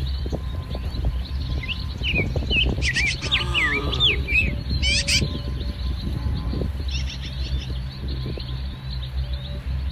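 Small birds chirping in quick, sweeping calls, a busy run of them from about two to five seconds in and a few more around seven seconds, over a steady low rumble and scattered soft knocks.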